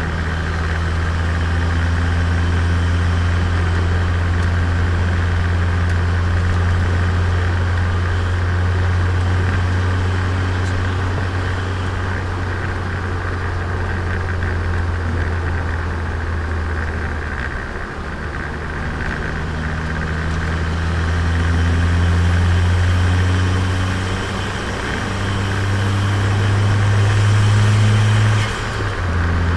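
Turbocharged Nissan Micra four-cylinder engine running under way during break-in, a steady low drone that eases off briefly about two-thirds through, then climbs in pitch as it accelerates and drops sharply just before the end.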